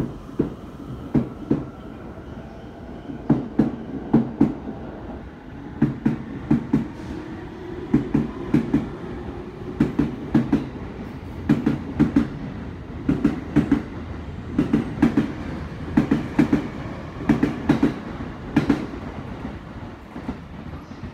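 Electric commuter train pulling out of the station, its wheels clacking over the rail joints in groups of two or three thuds that come faster and faster as it picks up speed, over a steady rumble and a faint rising motor whine.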